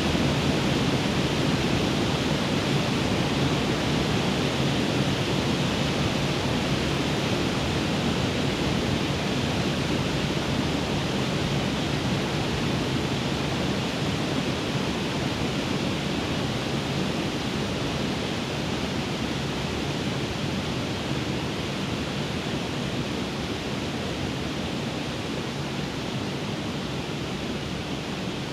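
Waterfall rushing: a steady roar of falling water that slowly grows quieter.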